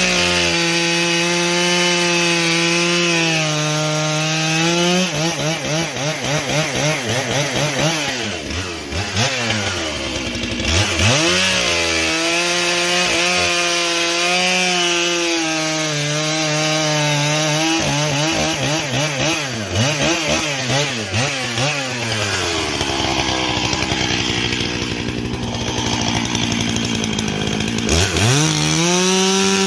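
Stihl MS 661 two-stroke chainsaw cutting firewood at high revs. Its engine pitch drops several times as the chain bites into the wood under load and climbs back between cuts.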